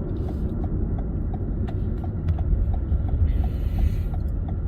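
Car cabin road noise, a steady low rumble, with a turn signal ticking evenly about three times a second. A short hiss comes in about three seconds in.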